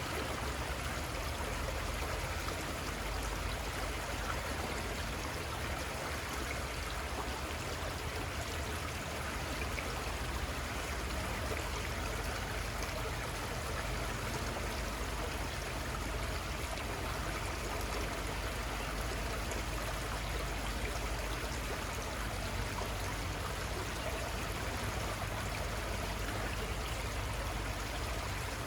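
Little Conestoga River flowing steadily over its bed: an even, continuous rush of running water, with a faint low rumble underneath.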